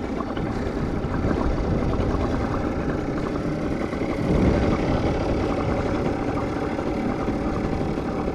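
Small boat's outboard motor running steadily at trolling speed, swelling briefly about four seconds in.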